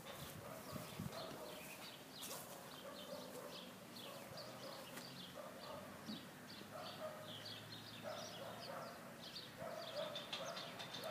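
Birds calling outdoors: many short, high chirps throughout, with lower calls coming in short spells every second or two, all faint.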